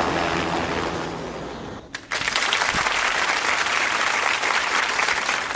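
Helicopter running steadily and fading, then after a sudden cut about two seconds in, applause: a dense, even clatter of many hands clapping.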